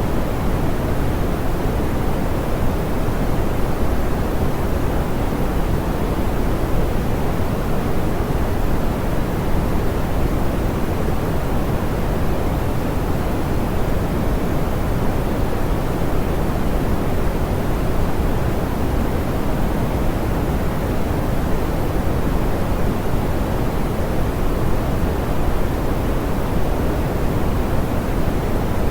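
Steady, softened pink noise: an even hiss weighted toward the low end, unchanging throughout.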